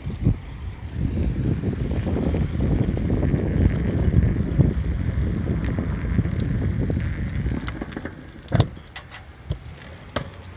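Motor vehicle on the move: a low, rumbling road and engine noise that eases off about eight seconds in, followed by a couple of sharp clicks or knocks.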